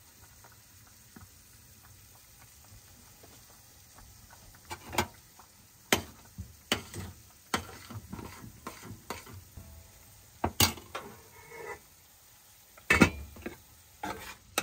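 A spoon stirring shredded cheese into a pot of grits, clacking and scraping against the pot in irregular strikes that start about four seconds in, over a faint sizzle of shrimp simmering on low heat.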